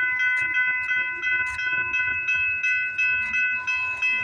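Railway level-crossing warning bell ringing: a steady, high-pitched ring of several tones over a run of regular clicks, cutting off suddenly near the end.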